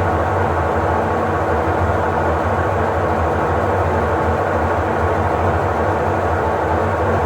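Electrolux LTE08 top-loading washing machine running, a steady machine noise with a deep hum that holds even throughout.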